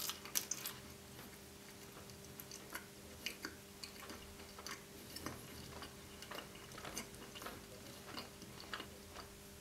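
Close-miked chewing of a bite of thin-crust Nutella dessert pizza with strawberries and marshmallow: soft, irregular wet mouth clicks and smacks.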